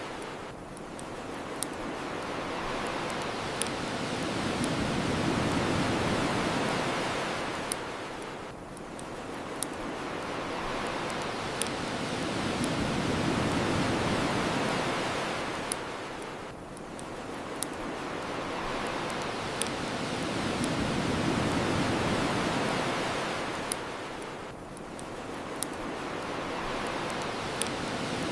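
Ocean waves washing on the shore, swelling and ebbing about every eight seconds, with a bonfire crackling and giving sharp, scattered pops.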